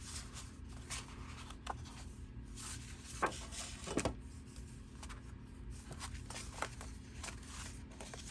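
Sheets of paper and journal pages being handled and shuffled, with soft rustles and a couple of light knocks about three and four seconds in.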